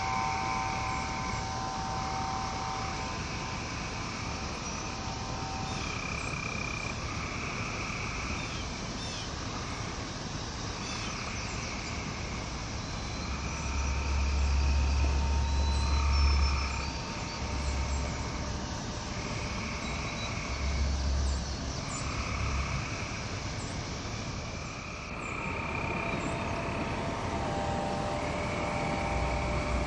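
Frogs calling in a steady rhythm, one call about every one and a half to two seconds, over a nature ambience. Sustained wind chime tones ring at the start, fade out, and ring again from about 25 seconds in. There are low rumbling swells about halfway through and again near the end.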